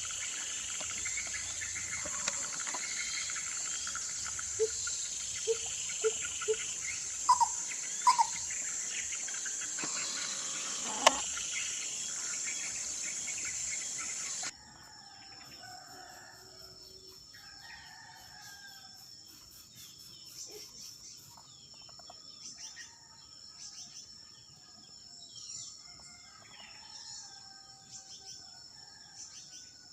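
Outdoor ambience of birds calling over a steady high insect drone. The sound changes abruptly about halfway through to a quieter drone with many scattered bird calls.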